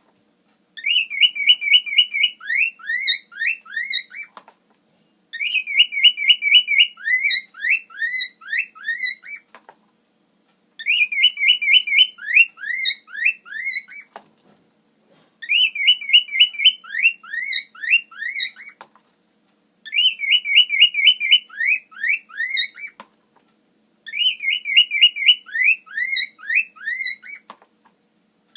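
Cockatiel whistling the same learned phrase over and over, six times with short pauses: a quick trill followed by a run of rising, swooping notes.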